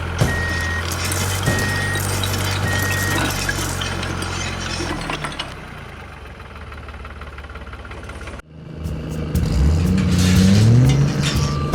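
Small motor of a DIY mini tractor running with a steady hum, while reversing beeps repeat a little more than once a second for the first three seconds. After a break, the motor speeds up with a rising whine.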